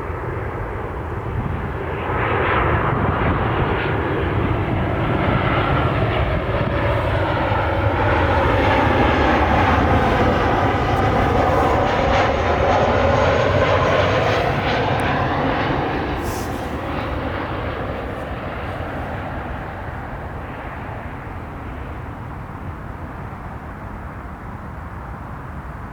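Jet engines of a four-engine Boeing 747 cargo jet passing on its landing. The sound swells from about two seconds in, is loudest around the middle with a sweeping, shifting tone, then fades away.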